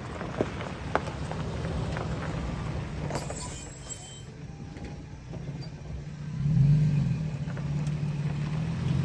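Motorcycle engine running at low speed, with a loud rushing noise about three seconds in and the engine revving up briefly near the seven-second mark.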